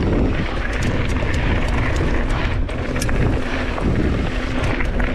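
Heavy wind buffeting on the microphone of a mountain bike riding fast down a dirt trail, with scattered sharp clicks and rattles from the bike over the ground.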